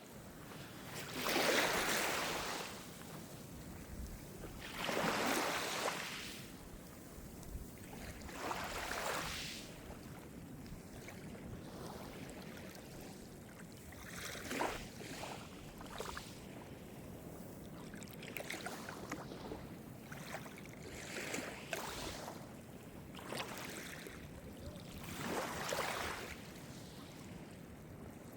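Calm Mediterranean surf: small waves breaking and washing in one after another, each a rush of hiss that swells and fades over a second or two over a steady background wash. The loudest come about a second and five seconds in.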